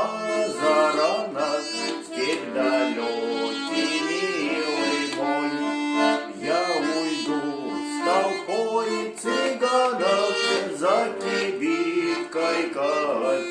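Accordion playing an instrumental passage between sung verses of a Russian romance, with a rhythmic melody and chords.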